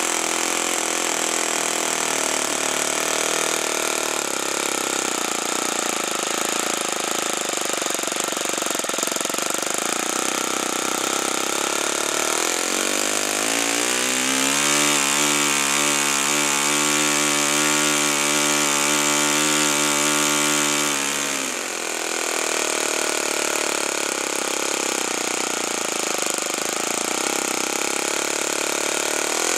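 Saito FA-45 four-stroke glow model engine running steadily at low throttle. About 13 seconds in it is opened up to a higher, even pitch, held for about eight seconds, then throttled back at about 21 seconds. It starts to rev up again near the end.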